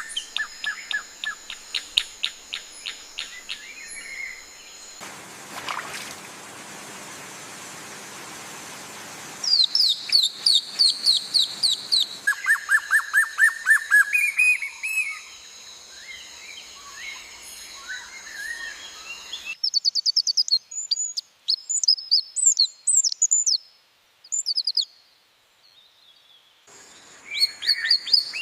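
Songbirds chirping and singing in quick repeated series of short notes, the song switching abruptly between different passages. A few seconds in, the birdsong drops out for a stretch of steady hiss before the chirping resumes.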